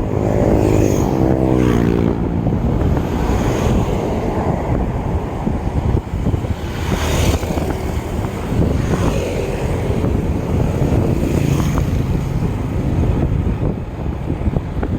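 Wind buffeting the microphone of a camera on a moving bicycle, a steady loud rumble, with a brief falling pitched hum in the first two seconds.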